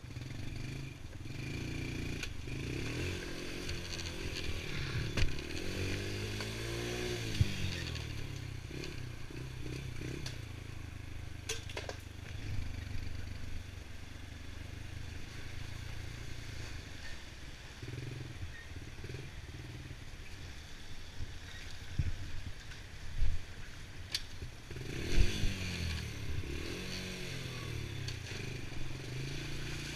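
Honda TRX90 ATV's small single-cylinder four-stroke engine running while riding, its revs rising and falling in waves. A few sharp knocks come from the ride, the loudest about 25 seconds in.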